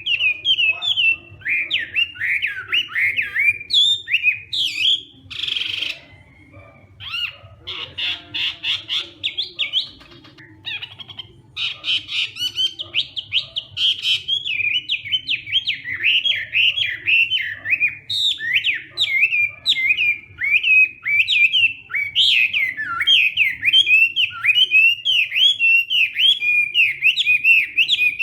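Chinese hwamei singing a long, fast, varied song of rapid swooping whistled notes, with a brief harsh rasp about five seconds in.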